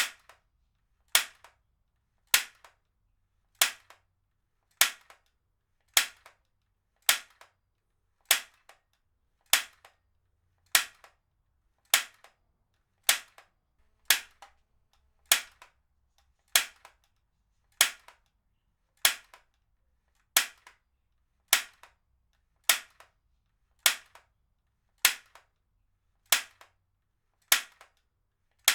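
Heavy-duty stapler firing staples over and over: one sharp snap about every 1.2 seconds, each followed closely by a fainter click.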